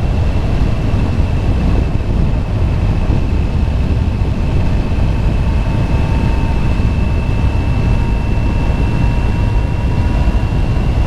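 Motorcycle riding at steady speed: a constant rush of wind on the helmet microphone over the drone of the engine, with a thin steady high whine throughout and a fainter lower whine joining about halfway through.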